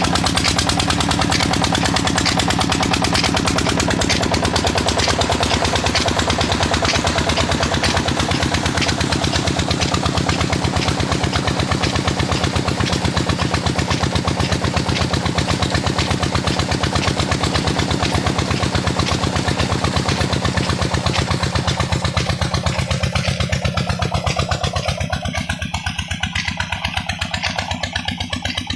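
Old 25 hp Petter diesel engine running steadily under load on a tubewell pump, with a fast, even beat of firing strokes. Over the last few seconds the sound becomes a little quieter and duller.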